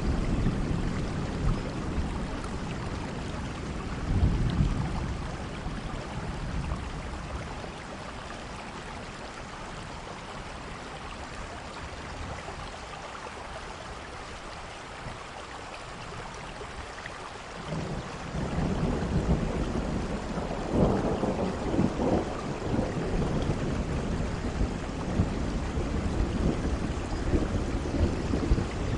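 Heavy rain falling steadily through a thunderstorm, with deep rolling thunder. The rumble dies down for several seconds in the middle. About 18 s in, a new peal of thunder builds sharply and is loudest a few seconds later.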